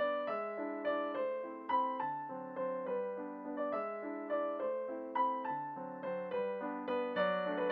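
Background piano music: a gentle melody of single notes over chords, each note struck and fading.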